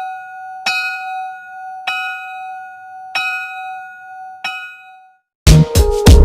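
A bell with one clear ringing note, struck four times about a second and a quarter apart, each strike ringing out and fading. Near the end it stops and loud music with a beat starts.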